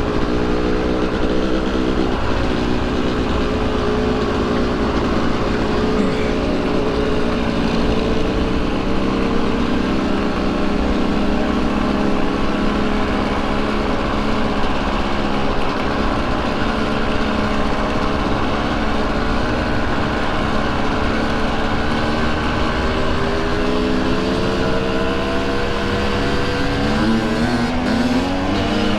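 KTM 300 XC-W's single-cylinder two-stroke engine running under way across a field, its pitch rising and falling with the throttle and revving up near the end, with wind rumble on the microphone.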